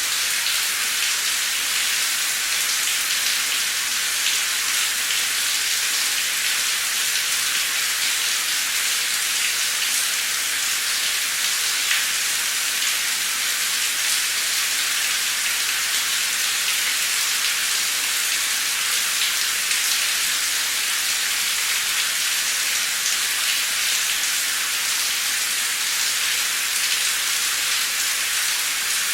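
Heavy, torrential rain pouring steadily, a dense even hiss with scattered drop impacts.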